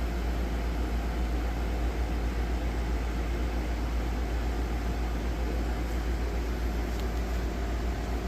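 Laser back-glass removal machine running: a steady hum and rushing noise with a deep rumble underneath, unchanging throughout.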